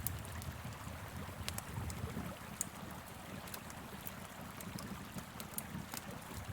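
A wood fire crackling with scattered sharp pops over the steady rush of a flowing river, with a low wind rumble underneath.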